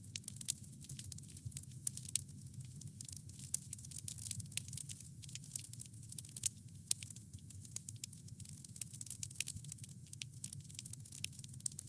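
Wood fire crackling: a steady low rumble of flames with many small, sharp pops and snaps from the burning wood, several each second.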